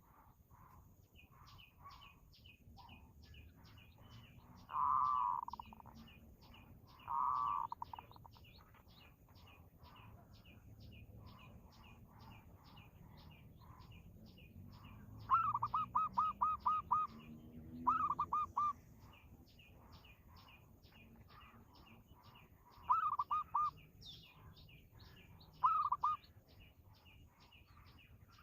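Birds chirping: a steady string of short, high chirps repeated about three times a second, with louder bursts of rapid chirps breaking in several times, the longest about halfway through.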